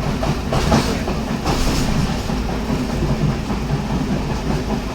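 Passenger train running, a steady rumble with wheels clattering on the rails, with two brief rushes of noise about half a second and a second and a half in.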